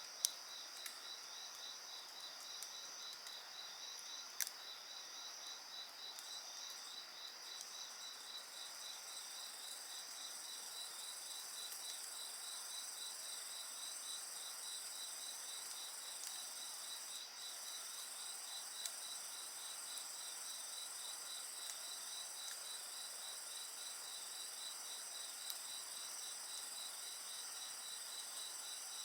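A chorus of crickets and other insects trilling steadily, one singing a rapid, evenly pulsing trill, with a few sharp crackles from a wood fire.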